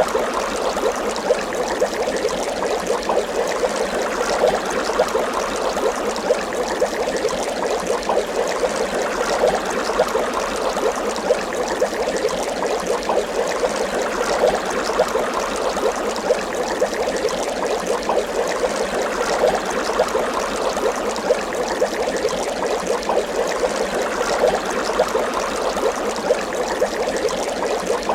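Water bubbling continuously, a steady stream of many small bubble pops.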